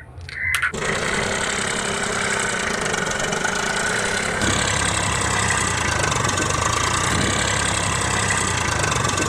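A small motor switched on, running steadily from under a second in, its sound shifting about halfway through.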